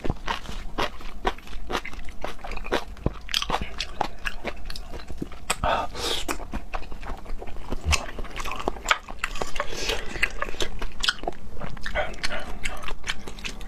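Close-miked chewing and wet mouth sounds of a person eating raw seafood: a dense, irregular run of quick clicks and smacks.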